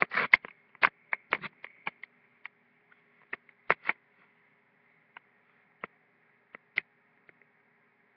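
Irregular small clicks and knocks, a quick cluster in the first two seconds and then single ones every second or so, over a faint steady hum.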